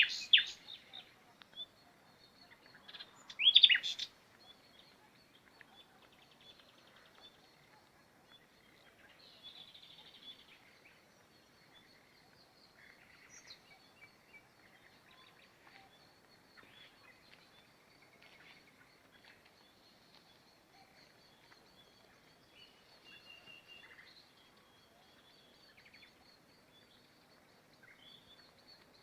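Small birds chirping, with two loud bursts of quick high chirps in the first four seconds, then fainter, scattered chirps and calls.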